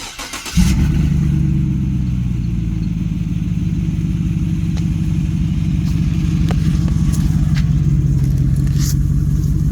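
A 1500 pickup's engine cranks for about half a second and catches. It then idles steadily and loudly through an open exhaust, with no pipe fitted behind the catalytic converter (cat-back removed).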